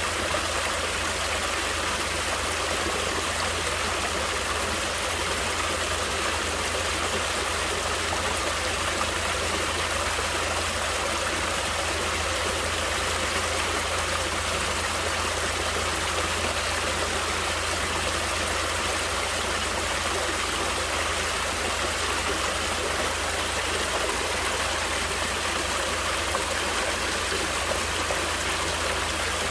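Natural stream of flowing water, a steady, even rush with no pauses or separate splashes.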